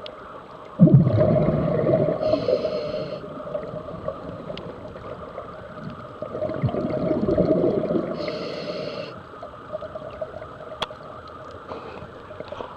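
Loose rock shifted by typhoon waters moving in a tunnel, with two long low grinding rumbles about five seconds apart over steady water noise.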